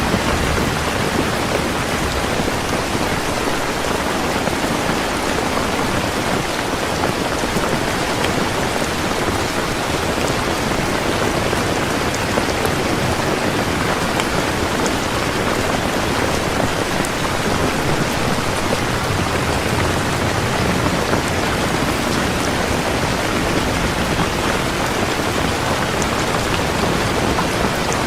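Heavy rain falling steadily: a dense, even hiss of raindrops on surfaces.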